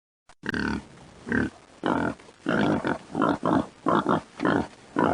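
Pig grunting in a run of about ten short calls, one after another.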